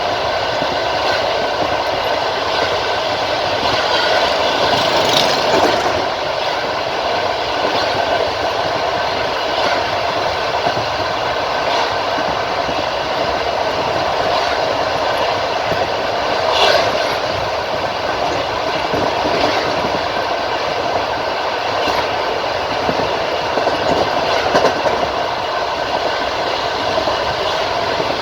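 Passenger train wheels clacking over rail joints as the carriage runs at speed, heard from the carriage window, with a continuous rumble of running noise. It swells louder briefly about five seconds in and again about seventeen seconds in.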